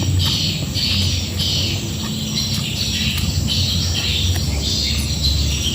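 A person chewing and smacking on a mouthful of rice and jackfruit curry, with short wet-sounding smacks about twice a second.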